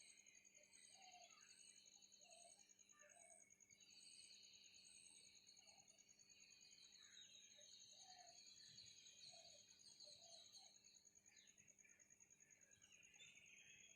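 Faint outdoor ambience: an insect's steady, fast-pulsing high trill runs throughout, with small birds chirping and twittering over it.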